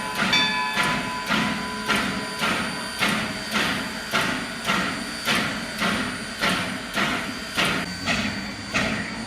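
Steam locomotive exhaust chuffing in an even beat of about two chuffs a second. A multi-tone whistle sound carries over from before and stops within the first second.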